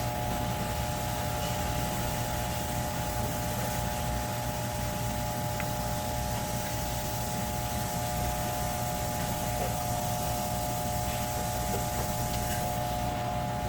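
A steady machine hum with a constant whine, unchanging throughout.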